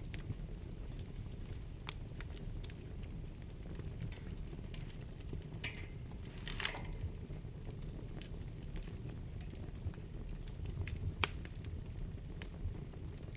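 Wood fire burning in a fireplace: a steady low rumble of flames with scattered crackles and pops. A brief hiss falls in pitch about halfway through, and a sharper pop comes about eleven seconds in.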